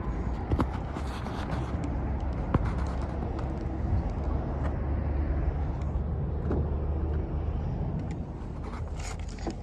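Steady low rumble of road-vehicle noise in an open lot, with a few faint clicks.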